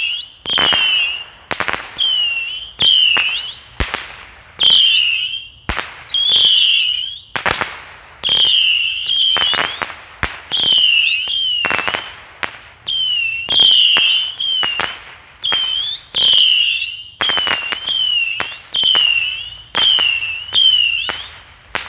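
A 100-shot Saturn missile battery firing shot after shot, about one a second. Each small rocket leaves the tube with a sharp pop and a shrill whistle that wavers and falls in pitch, and the string keeps going until near the end.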